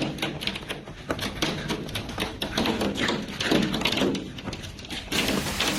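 Hailstones striking a hard surface in rapid, irregular knocks and taps. About five seconds in it cuts to the steady hiss of heavy rain.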